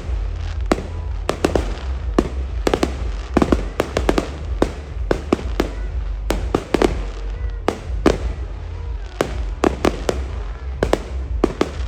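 A fireworks display: a rapid, irregular series of sharp bangs and pops, several a second, over a constant low rumble.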